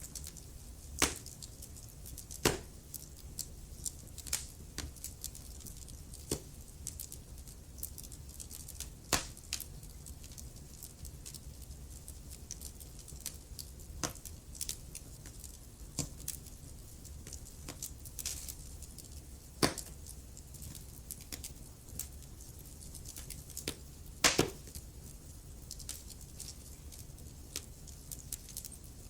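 Wood fire crackling in a fireplace: irregular sharp pops and snaps over a low steady rumble, with a few louder pops scattered through, the loudest about twenty-four seconds in.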